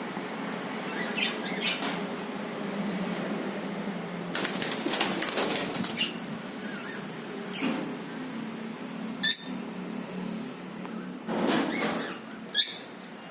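Cockatiels flapping their wings for a second or two, about four seconds in, followed by two short, sharp, high-pitched cockatiel calls, the second near the end.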